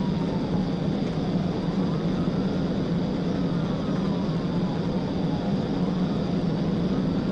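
Police patrol car in a high-speed pursuit: steady engine, tyre and wind noise, with the car's siren wailing slowly up and down underneath.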